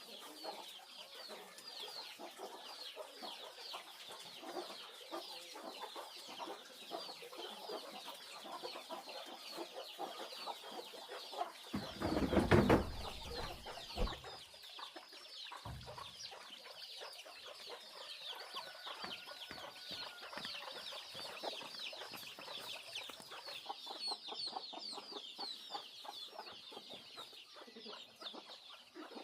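A flock of chickens clucking and peeping with many quick high calls throughout. Midway comes a loud low rumble lasting about two seconds, then a shorter one.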